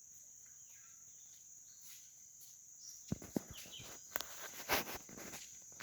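Steady high-pitched buzz of insects. From about three seconds in, a run of clicks, knocks and rustling handling noises comes in over it.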